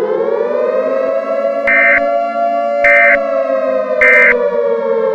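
Civil defense warning siren wailing, its pitch rising slowly and then sinking gently. Three short high beeps sound over it about a second apart.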